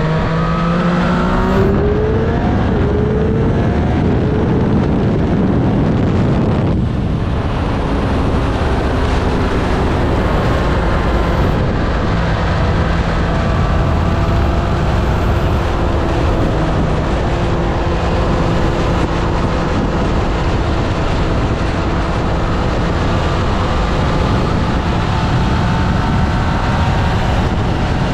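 Triumph Street Triple 765 RS's 765 cc inline three-cylinder engine and exhaust under way, rising in pitch as it accelerates over the first couple of seconds. The engine note breaks briefly about seven seconds in, then holds a steadier running note with slow rises and falls in pitch.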